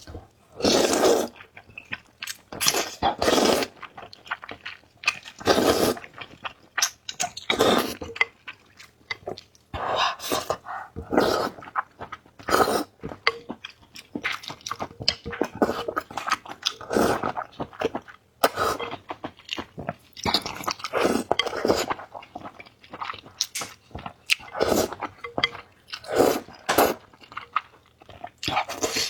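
Close-miked eating sounds: a person slurping and chewing noodles and soup in a rapid, irregular string of loud mouthfuls.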